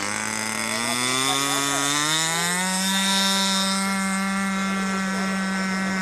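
Small model-aircraft engine climbing in pitch over about three seconds as it is throttled up, then holding a steady high note at full throttle.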